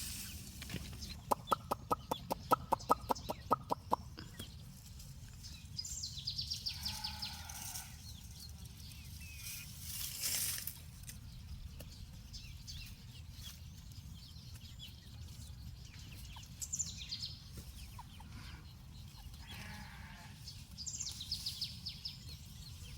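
Chickens clucking: a quick run of about a dozen clucks about a second in, then a few scattered higher calls over a low background hum.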